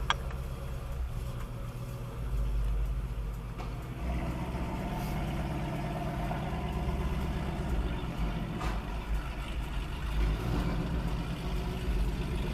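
Car engine running while driving, heard from inside the car, its hum rising in level about 2, 4 and 10 seconds in as the engine takes on more throttle. A sharp click comes right at the start.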